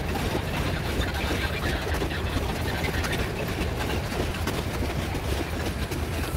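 Loaded metre-gauge freight wagons, grain hopper cars and boxcars, rolling past on the rails: a steady rumble of steel wheels on track with many small clanks and clicks.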